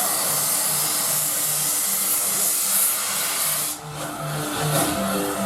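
Steam locomotive venting steam in a steady loud hiss that cuts off abruptly near the end, leaving music playing underneath.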